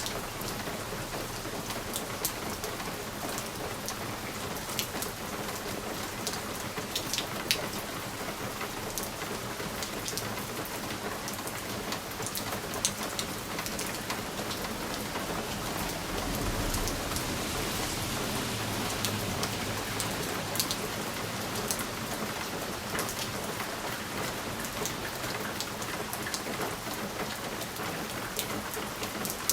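Steady rain pattering on a window pane, with sharp individual drop ticks throughout. A low rumble swells for a few seconds just past the middle.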